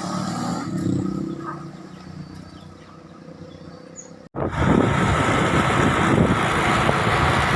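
Motor vehicle running, fading over the first few seconds. After a sudden cut about four seconds in, a loud, steady, ragged rumble of vehicle and wind noise takes over.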